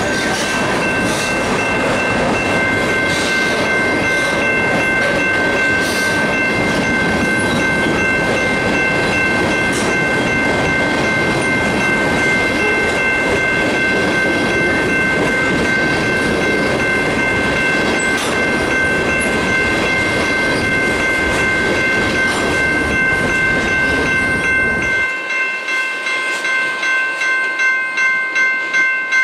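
Freight train of loaded tank cars rolling past close by, a steady rumble of wheels on rail. Over it runs the steady ringing of a grade crossing bell. Near the end the train rumble drops away and the bell carries on alone, at about two strokes a second.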